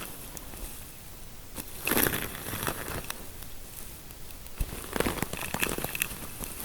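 Close-miked scalp-massage sounds: fingers rubbing and scratching through hair, a crackly, crinkly rustle that comes in bursts, strongest about two seconds in and again around five seconds.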